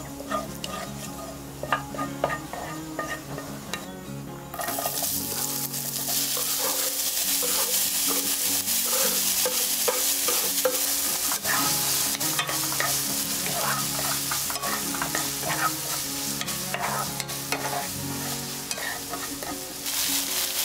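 Chili oil sizzling softly in a frying pan while a wooden spoon stirs and taps against the pan. About four and a half seconds in, the sizzle turns much louder as chopped onion, yellow paprika, green onion and Cheongyang pepper go into the hot oil and are stir-fried, with spoon scrapes and knocks.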